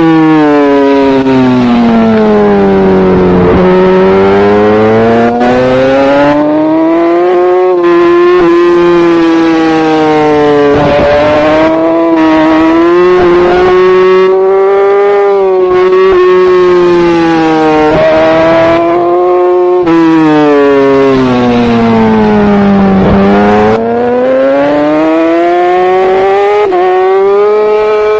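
Racing superbike engine at full race pace, its revs falling twice as the bike slows for corners and climbing back each time through a run of quick upshifts.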